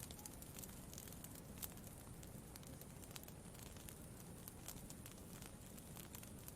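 Faint campfire crackling: irregular small pops and snaps, several a second, over a steady low background hiss.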